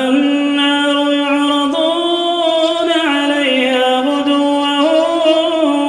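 A man reciting the Quran in a melodic chant, drawing out one long unbroken note whose pitch steps up and down several times.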